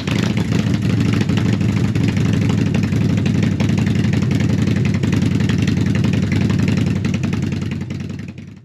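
Motorcycle engine idling steadily just after being started, then cutting off abruptly near the end.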